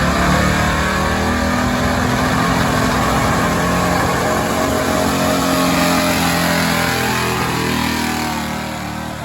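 Stock gas truck engine running at high revs under load in a pull, the note holding steady and then fading away over the last couple of seconds.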